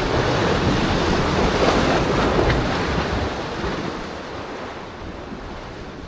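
Sea waves washing in, with wind buffeting the microphone; the sound fades gradually over the last couple of seconds.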